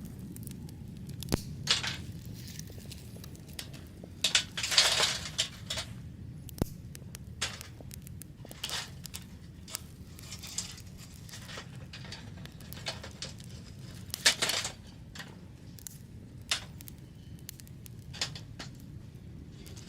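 Scattered clinks, taps and short rustles of cooking gear being handled, over a faint steady low rumble, with two louder rustling scrapes about five and fourteen seconds in.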